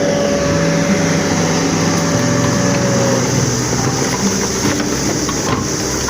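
A motor engine running steadily, with a held tone that ends about three seconds in.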